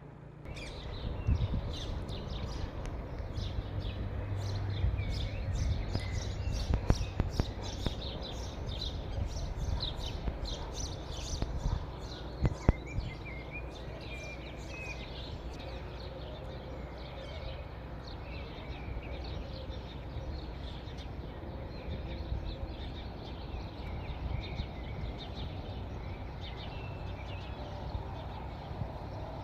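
Many small birds chirping rapidly over a low, steady rumble. The chirping is densest in the first half and thins out later, with a couple of sharp knocks about seven and twelve and a half seconds in.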